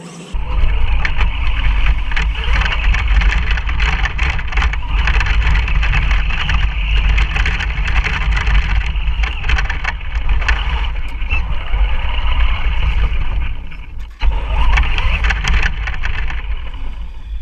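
Traxxas Stampede electric RC monster truck driving through water, splashing and churning with heavy rumble and crackling clatter. The sound cuts out briefly about 14 seconds in, then picks up again.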